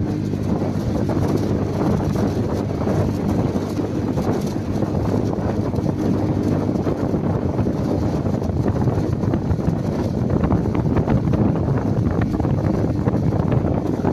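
Wind buffeting the microphone over a steady low rumble, with no pauses or distinct events.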